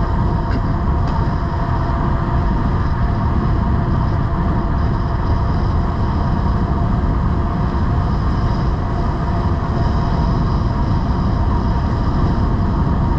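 Steady wind rush on the microphone and tyre noise from a Cyrusher Kommoda e-bike with 20-inch tyres riding at cruising speed, with a steady whine over it.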